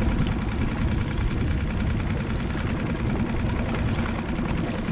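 Small skiff's outboard motor idling in gear, a steady low running sound.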